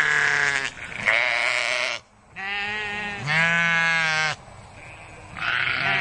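A sheep or goat bleating: several loud, drawn-out bleats in a row, each most of a second long, with short pauses between them.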